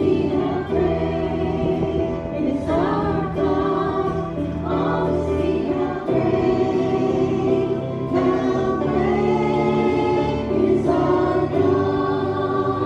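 Group of voices singing a gospel hymn, with held notes that change every second or two over steady low notes.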